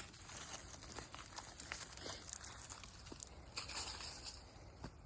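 Faint rustling and crinkling with a few scattered light clicks.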